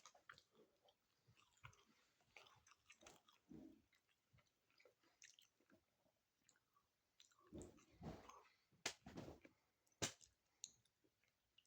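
Quiet, close mouth sounds of a person chewing a chicken bacon ranch sandwich: irregular soft smacks and clicks, with a few louder ones between about eight and ten seconds in.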